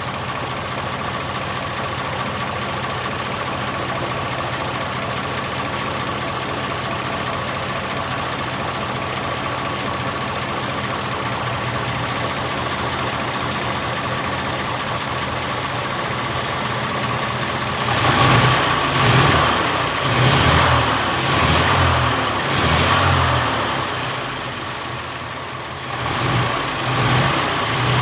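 1926 Oakland's six-cylinder flathead engine idling steadily a little low, then from about two-thirds of the way in rising and falling in speed and loudness several times, about once a second, as the idle and mixture are being set.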